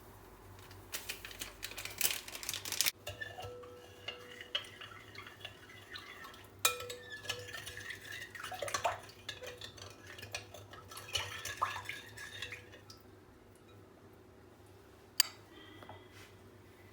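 Kitchen dishes and metal utensils clinking and clattering in a string of short knocks, some left ringing. A rush of noise comes first, and a single sharp click near the end.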